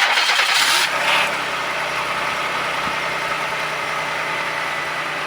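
1995 Chevrolet Monte Carlo's 3100 V6 on a cold start near freezing. It is loud for about the first second as it catches, then settles into a steady cold idle.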